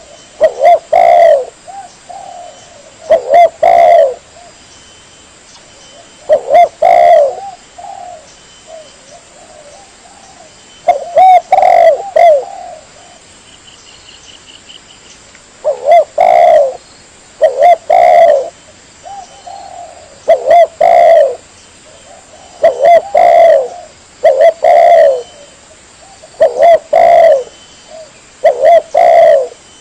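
Spotted dove (tekukur) cooing, played as a lure call: short phrases of two or three coos repeated about a dozen times, every two seconds or so, with a longer pause partway through.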